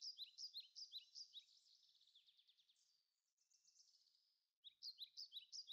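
Faint songbird chirping outdoors: quick, high, short falling notes, several a second, that die away after about two seconds and start again near the end.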